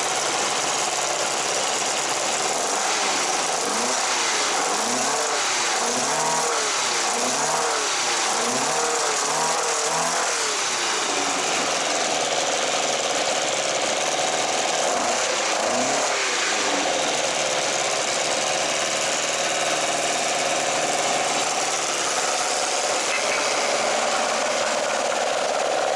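Toyota 20-valve (5-valve-per-cylinder) 4A-GE four-cylinder engine breathing through a current 86/BRZ muffler, blipped repeatedly with quick rises and falls in revs about once a second, then once more later, and otherwise running steadily.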